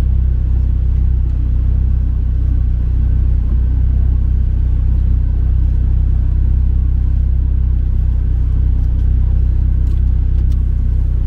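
Nissan Silvia S15 Spec R's turbocharged four-cylinder engine running steadily at low revs, a deep even rumble.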